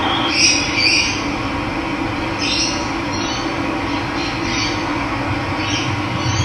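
Steady rush of running water, with birds calling in short, high chirps now and then over it.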